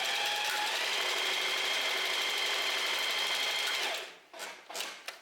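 Domestic sewing machine running steadily at speed, sewing a straight-stitch test seam on scrap jersey, then stopping about four seconds in. A few faint short handling sounds follow.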